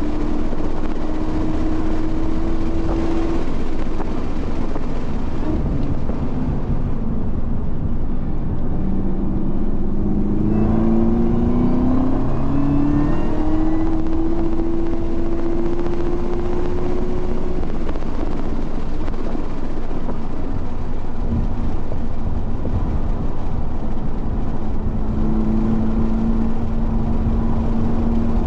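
Race car engine at full throttle on a circuit, heard onboard over constant road and wind noise: the engine note climbs, breaks off about ten seconds in and near eighteen seconds as the car shifts and lifts for corners, then climbs again.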